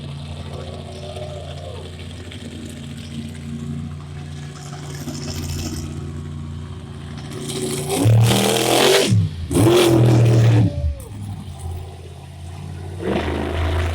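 Monster truck engine running steadily, then revving hard twice, about eight and ten seconds in, with its pitch rising and falling, before settling and building again near the end.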